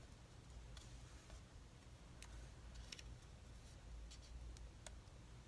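Near silence, with a few faint, sparse clicks and light rustles of paper cutouts being handled and set down on a page, over a low steady room hum.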